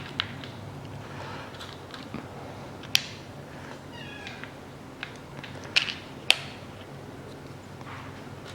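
Sharp metallic clinks and taps of tools and parts as the timing-chain tensioner shoe of a Mitsubishi ASX engine is fitted, with the two loudest about three and six seconds in. About four seconds in there is a brief high squeal that falls in pitch.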